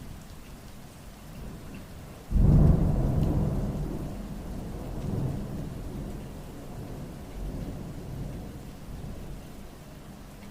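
Thunder: a sudden loud crack about two seconds in that rolls off into a low rumble over several seconds, over steady rain.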